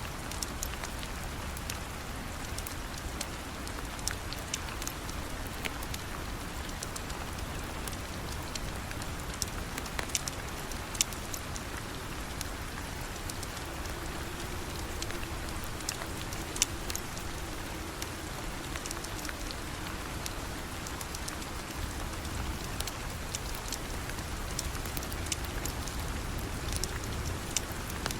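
Steady rain falling, with frequent sharp ticks and pops scattered through it.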